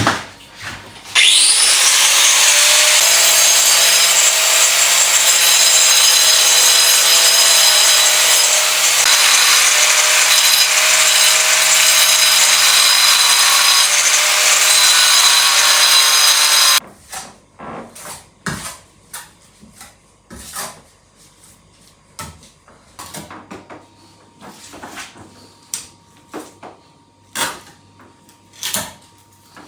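An electric power tool spins up about a second in and runs at speed, cutting or sawing with a steady hum, for about fifteen seconds, then stops suddenly. Scattered knocks and clatter follow.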